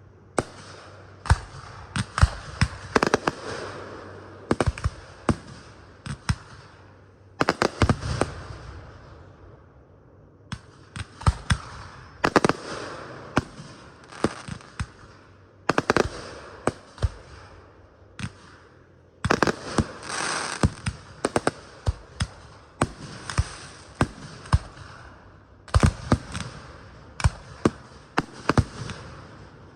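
Fireworks display: clusters of sharp bangs from bursting aerial shells every few seconds, with crackling and hissing between them.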